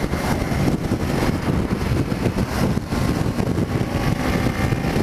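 Kawasaki Ninja 300's parallel-twin engine running steadily at road speed, mixed with heavy wind buffeting on the microphone.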